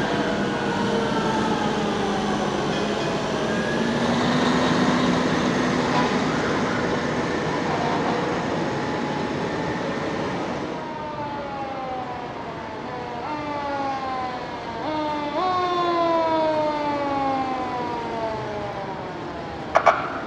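Fire truck sirens sounding in a parade, several wailing at once with pitches sliding down. From about halfway one siren stands out, winding down in long falling sweeps that are pushed back up a few times. A short loud blast comes near the end.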